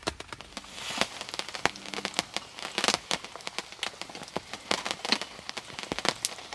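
Rain falling on a hard surface: dense, irregular sharp drop taps over a soft patter of rain.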